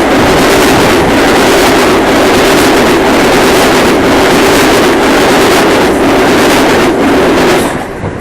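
Metro-North M8 electric multiple-unit train passing close at high speed without stopping: a loud, steady rush of wheels and air with a hum. It cuts off sharply near the end as the train clears.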